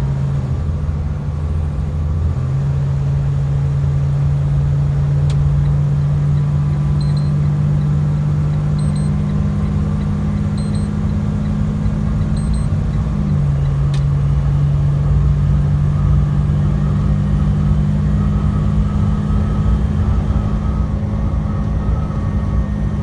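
Truck engine and road noise heard from inside the cab: a steady low drone that shifts in pitch a few times.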